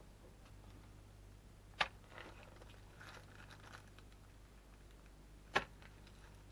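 Small parts and tools being handled on a workbench during an RC car repair: two sharp clicks about four seconds apart, with faint rustling and scraping between them.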